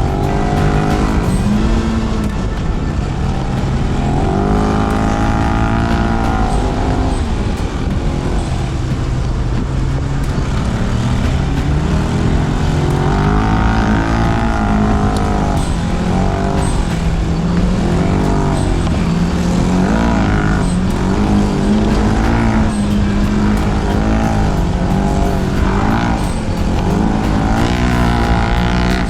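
Polaris RZR Pro XP side-by-side's engine running under load on a muddy trail. The revs climb and drop over and over every few seconds as the throttle is worked through ruts.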